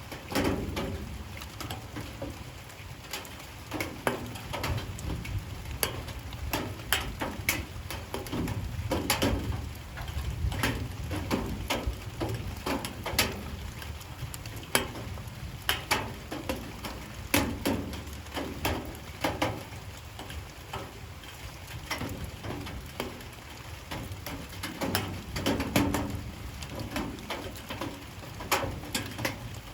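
Light rain falling, with irregular drops and drips tapping sharply on hard surfaces over a steady low rumble.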